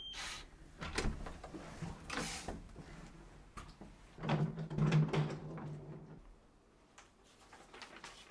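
Hotel keycard door lock giving a short electronic beep as the card is held to it, followed by a series of clicks and knocks from the latch and handle as the door is opened.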